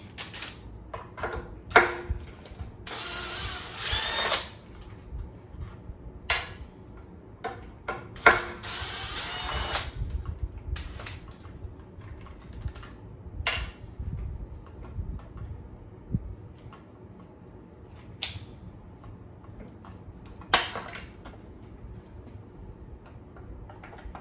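Cordless drill-driver with a T25 Torx bit running in two short bursts of about a second and a half each, backing out screws. Between the bursts come scattered clicks and knocks of the tool and parts being handled.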